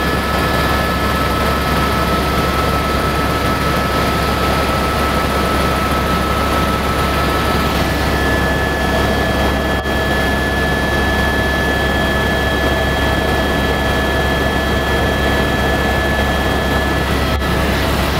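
Helicopter turbine engine and rotor running steadily, a deep low drone under a constant high whine. About eight seconds in, the whine tones shift to new pitches.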